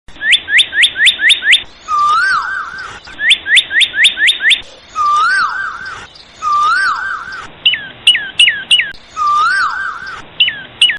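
Bird-like chirping: quick runs of about six rising chirps alternating with a short warbling whistle, the same pattern repeating several times.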